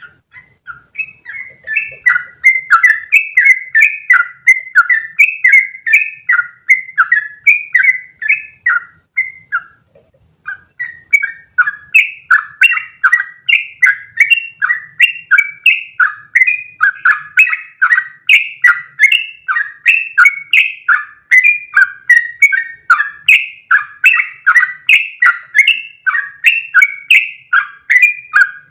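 Yellow-vented bulbul (trucukan) singing a long, rapid run of bubbly chirping notes, about four a second, the drawn-out 'ropel' phrase used as a tutor song for caged birds. The run breaks off briefly about ten seconds in, then resumes.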